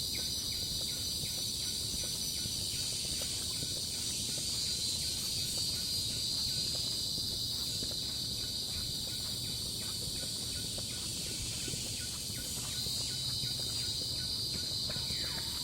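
Forest insect chorus: a steady, high-pitched drone of massed insects that goes on without a break.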